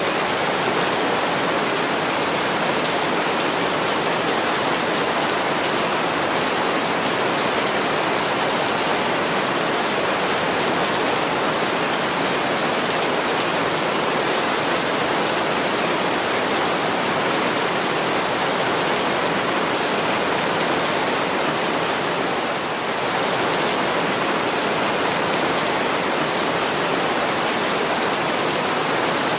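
Heavy rain pouring steadily onto a window: a dense, even hiss of falling water.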